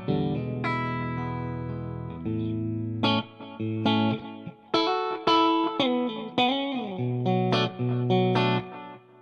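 Electric guitar through a Matchless DC30 amp patch on a Fractal FM9, pushed by an Xotic RC Booster clean boost with low gain, treble up and bass cut, giving a lightly driven tone. A chord rings for about three seconds, then a run of picked notes follows, with a bent note a bit past the middle.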